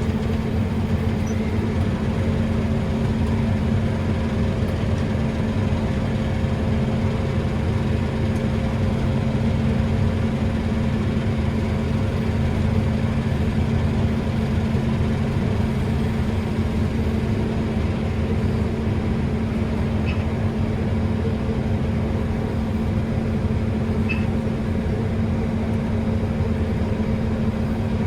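Steady, unchanging engine drone heard from inside a farm vehicle's cab, with a constant low hum.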